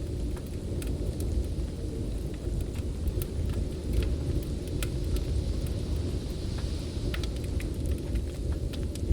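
Heavy snowstorm wind blowing as a steady low rumble, with the scattered sharp pops and crackles of a wood fire.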